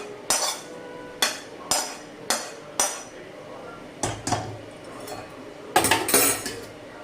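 A spoon knocking and scraping against a kadai as cooked chicken keema is emptied out, in a series of sharp clinks about every half second, with a louder cluster near the end.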